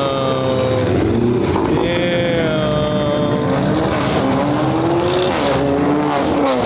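Car engine revving hard, its pitch falling and climbing again several times.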